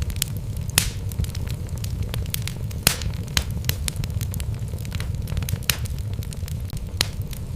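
Wood fire burning in a fireplace: logs crackling with irregular sharp pops over a steady low rumble of the flames, a few louder pops standing out about a second in, near three seconds and near the end.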